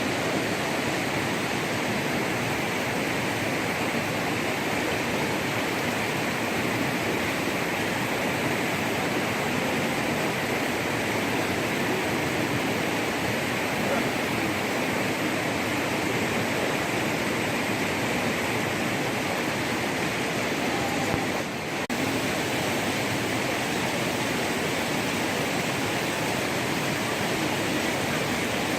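Steady rushing of water, even and unbroken, with a brief drop about three-quarters of the way through.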